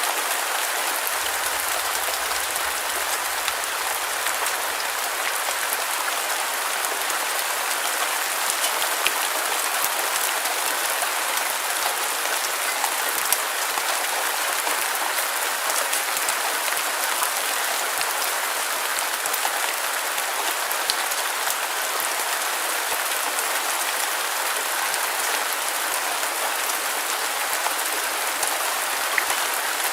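Steady rain falling on a surface, a dense even patter with occasional distinct drops.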